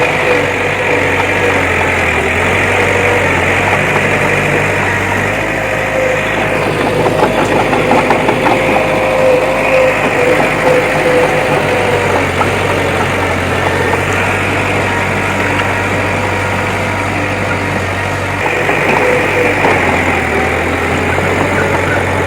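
Diesel engine of heavy earthmoving machinery running steadily, with a steady high whine over it. It turns louder and rougher for a few seconds in the middle.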